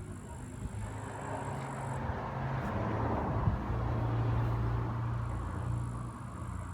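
A motor vehicle running nearby: a steady low engine hum with road noise that grows louder toward the middle and then fades away.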